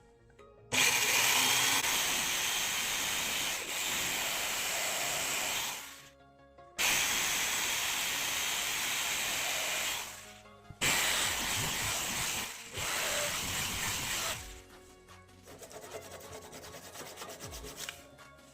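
A power tool working wood, run in four bursts of a few seconds each with abrupt starts and stops; soft background music is left in the last few seconds.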